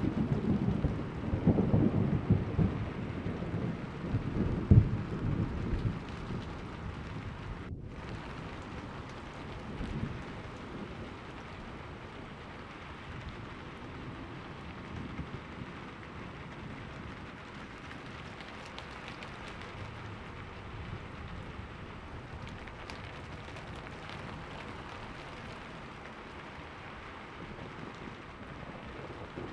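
Thunderstorm: rolling thunder rumbles over steady rain in the first few seconds, then dies away, leaving the rain falling evenly on its own.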